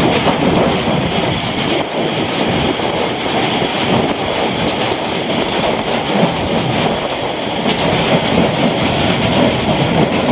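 Steady, loud roar of a strong storm wind with rain, an even rushing noise with no pauses.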